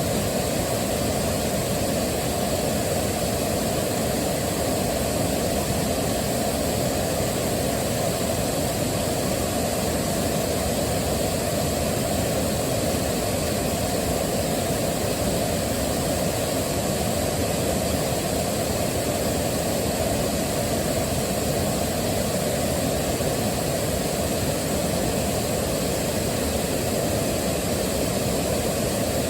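Waterfall's rushing water, a steady unbroken wash of noise that is deep-weighted and unchanging.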